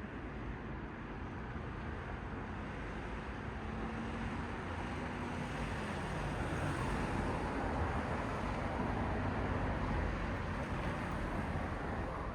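Cars passing on a road: a steady hiss of tyres on the road surface that swells to its loudest about two-thirds of the way through and eases off near the end. A faint low hum, falling in pitch, runs through the first half.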